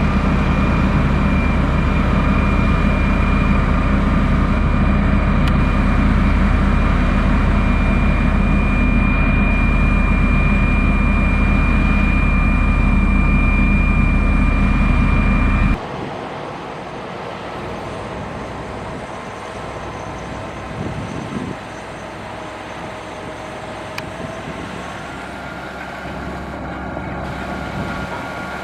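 Heavy diesel engine of a motor grader running steadily under load, a deep drone with a thin steady whine above it. About sixteen seconds in it cuts off abruptly to a quieter, farther-off engine sound.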